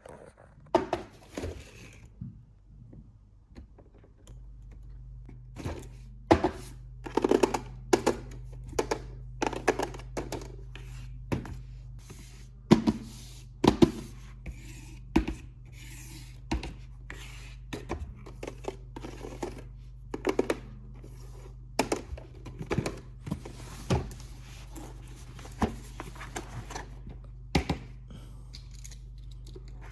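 Hands unpacking and handling plastic toy packaging: irregular clicks, taps and scrapes. A steady low hum starts about four seconds in and carries on underneath.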